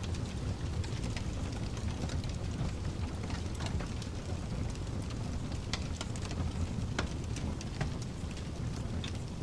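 Fire crackling in a fireplace, with irregular sharp pops and snaps, over a steady low rushing noise (pink noise).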